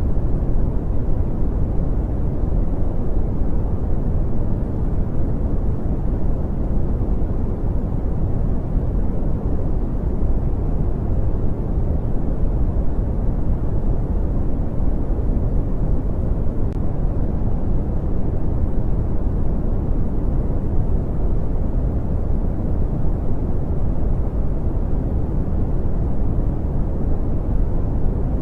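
Steady brown noise: an even, unbroken hiss weighted heavily toward the deep end, with little in the highs.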